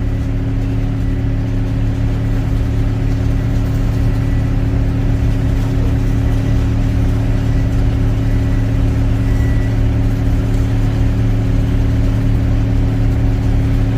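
Excavator's diesel engine running steadily with a constant low drone, with no change in pitch.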